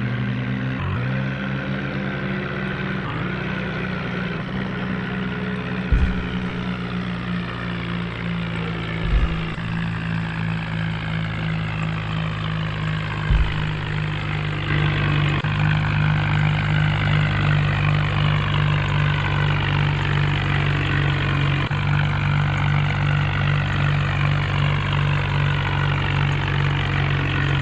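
HMT tractor's diesel engine running steadily, with a few short knocks, and growing louder about halfway through.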